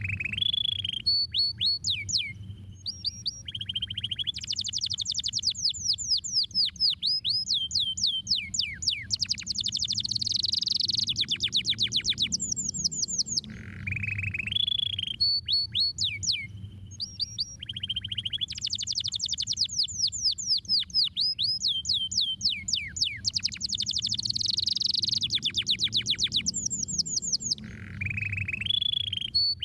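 Domestic canary singing: rapid trills of falling whistled notes alternating with buzzy rolls and held notes. The same song sequence repeats about every 14 seconds.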